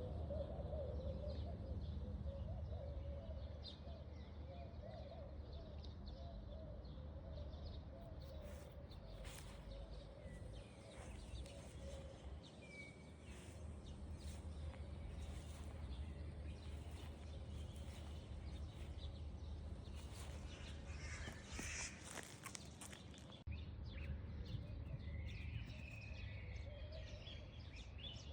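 Outdoor ambience: scattered short bird chirps over a low, steady rumble.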